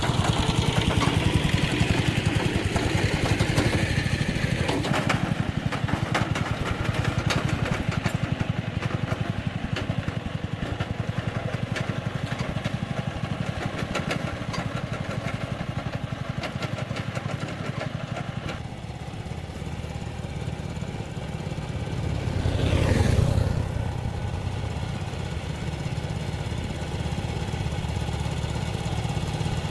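A small engine running steadily, swelling briefly about three-quarters of the way through.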